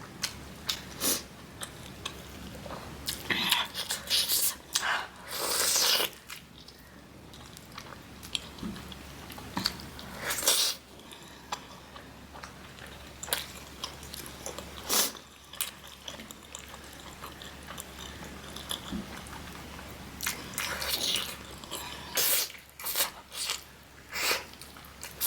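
Close-miked chewing and biting of spicy mutton curry: irregular short, sharp mouth sounds every second or so, some louder and longer, over a low steady hum.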